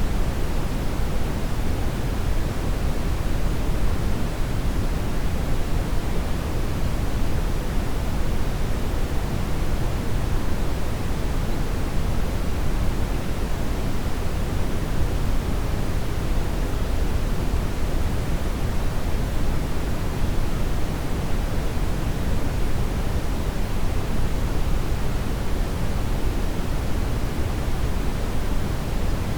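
Brown noise: a steady, deep, even hiss, strongest in the low end and thinning toward the treble, unchanging throughout.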